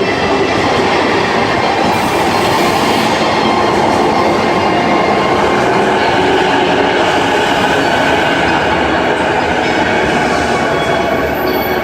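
Musashino Line electric commuter train at the platform, a steady run of wheel and motor noise with faint clickety-clack.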